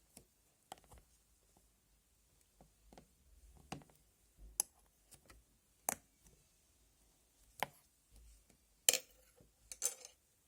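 Bubblegum slime being handled: scattered sharp clicks and small pops, about one a second, as it is pressed and pulled. The loudest pops come near the end.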